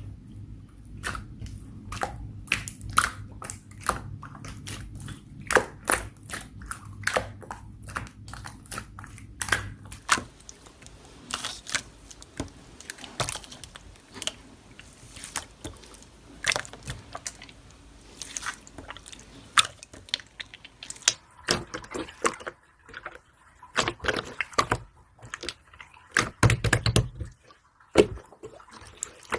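Slime being squeezed, poked and stretched by hand, with irregular sticky clicks, pops and crackles several times a second. A low steady hum sits under it for about the first ten seconds, then stops.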